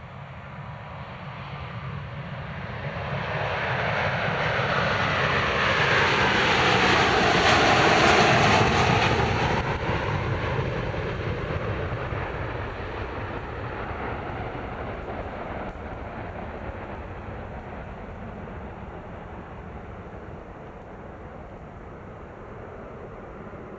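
Jet airliner taking off and passing close by: its engine noise swells to a peak about eight seconds in, then slowly fades, with a tone that drops in pitch as it goes past.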